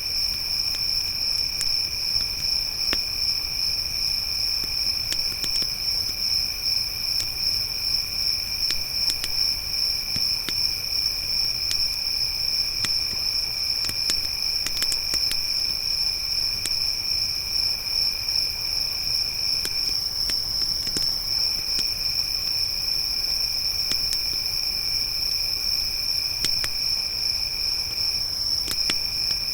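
Crickets chirring in a continuous high-pitched chorus, with a second, lower insect trill that breaks off briefly twice near the end. Sparse sharp crackles and pops from a wood campfire sound throughout, a little thicker about halfway through.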